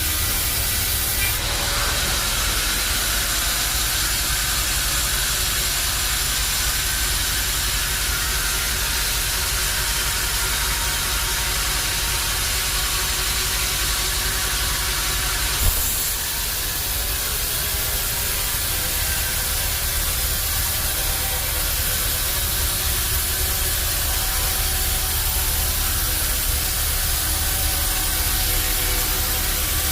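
Band sawmill running: a steady, hissing mechanical noise over a low motor hum. There is a brief sharp knock about halfway through.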